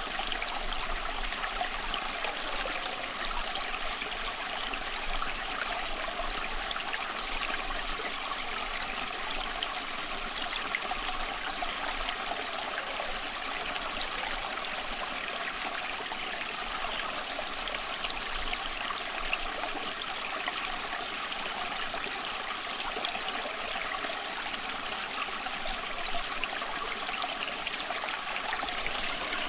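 A small stream flowing and trickling steadily over stones, an even, unbroken babble of water.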